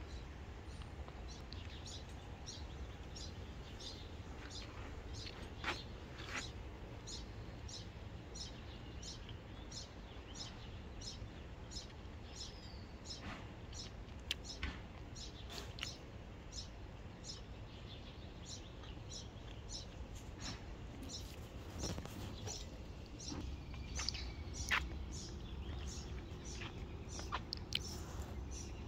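A songbird repeating short, sharp chirps, about two a second, with a few louder clicks among them, over a steady low outdoor rumble.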